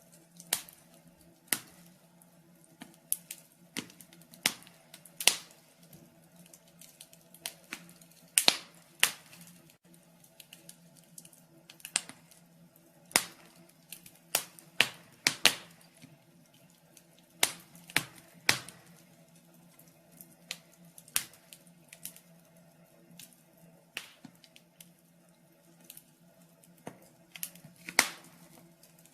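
Wood fire crackling in a fireplace: irregular sharp pops and snaps at uneven spacing, over a faint steady hum.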